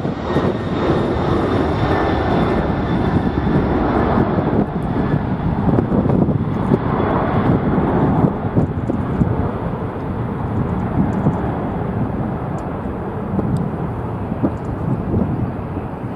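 Jet airliner engines running as a plane passes, with a faint high whine over the first several seconds that then fades, all under heavy wind buffeting on the microphone.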